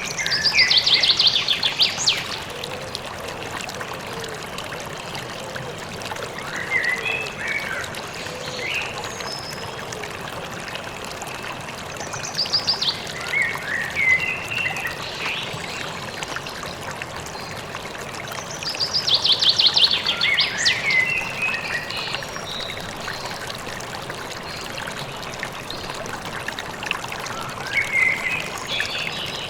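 Steady rush of a flowing stream, with a songbird singing short phrases of chirps and fast trills about every six to eight seconds.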